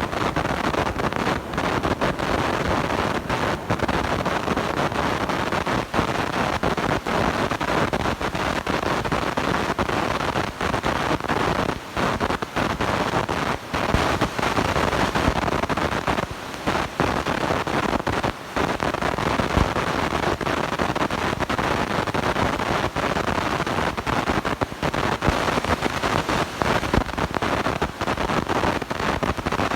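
Blown-out, overdriven microphone giving a loud, steady distorted rushing noise, with a few brief dropouts around the middle.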